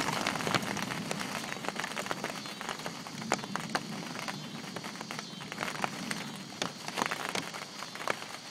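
Heavy storm rain falling on a greenhouse roof: a steady hiss with many sharp, separate drop hits.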